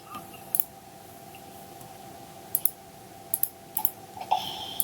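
Computer mouse and keyboard clicks, sharp and irregular, some in quick pairs, over a faint steady hum.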